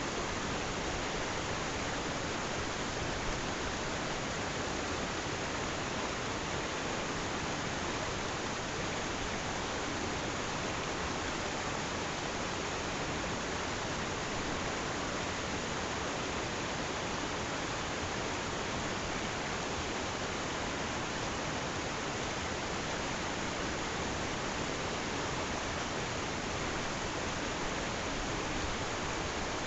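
Flowing water rushing steadily, an even unbroken hiss with no surges or breaks.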